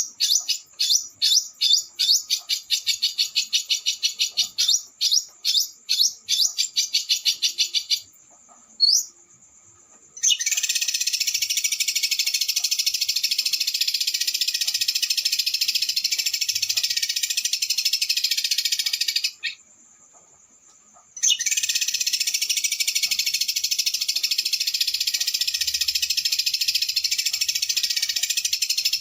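Small songbird's fast trilling song. First comes a quick run of sharp, high notes, then a single rising whistle. Then come two long unbroken trills of about nine and eight seconds, with a short pause between them.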